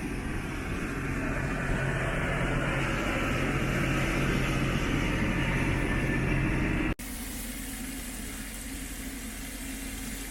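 A vehicle engine running steadily with a low hum under a wash of hiss. About seven seconds in, an abrupt cut switches to a quieter, hissier steady background.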